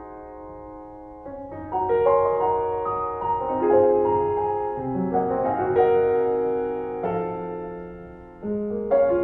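Background piano music: a slow, gentle melody of held notes, softening near the start and again shortly before the end.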